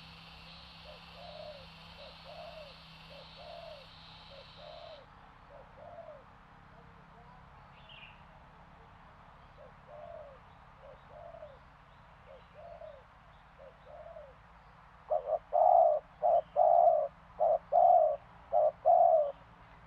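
Spotted dove (tekukur) cooing. Soft, low coos repeat about once a second, then a much louder run of about six coos near the end.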